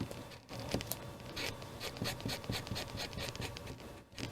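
Small, irregular handling noises of paper craft work: scratching, rubbing and light taps.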